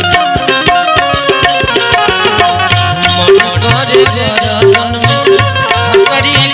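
Instrumental interlude of a Bhojpuri Hanuman bhajan: tabla keeping a steady rhythm under a banjo melody, with no singing.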